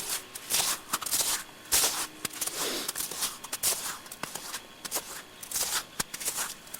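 Footsteps crunching through deep fresh snow: a string of irregular, hissy crunches.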